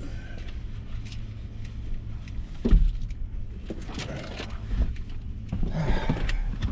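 A steady low rumble inside a truck, with a single thump about three seconds in and scattered clicks and handling noises.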